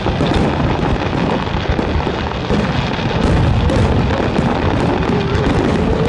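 Fireworks display: a dense run of aerial shells bursting, with bangs and crackling one after another, and music playing along.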